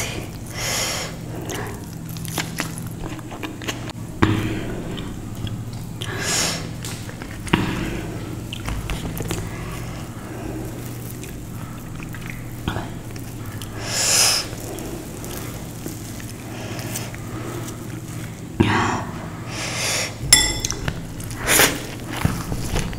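A person chewing and biting food close to the microphone, in scattered bouts, over a steady low hum.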